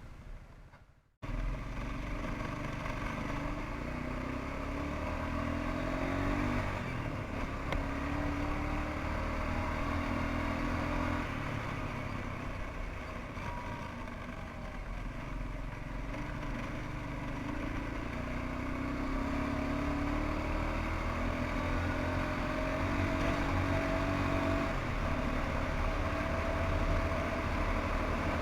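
1992 Suzuki Quadrunner 300 ATV's single-cylinder four-stroke engine running, starting about a second in, its speed rising and falling repeatedly as the throttle is worked.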